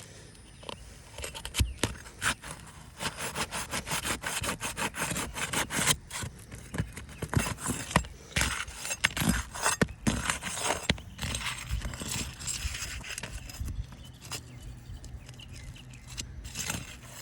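Asphalt shingles being pried apart from the rows below, their tar sealing strips tearing loose: irregular scraping with many sharp clicks and snaps.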